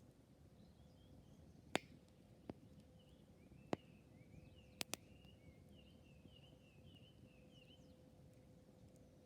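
Campfire burning quietly, the wood giving five sharp pops over a few seconds, two of them in quick succession about five seconds in, over a faint low rumble.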